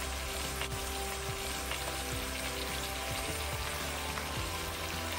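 Mutton and onions frying in hot oil in a nonstick pot, a steady sizzling hiss.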